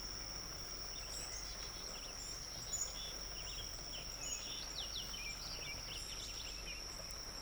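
Outdoor wetland ambience: a steady, high-pitched insect drone holds throughout, with many short bird chirps and calls scattered over it, busiest in the second half.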